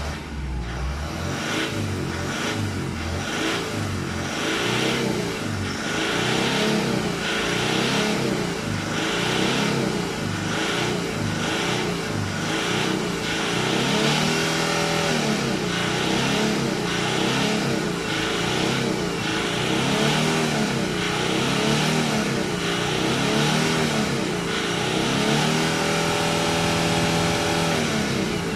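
Car engine revved repeatedly in neutral, rising and falling in pitch about once a second at first, then in slower, longer revs, held high for a couple of seconds near the end.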